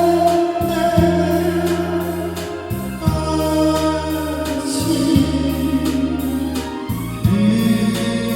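Slow music on an electronic organ: held bass notes that change every second or two under sustained chords, with a choir-like held voice sound.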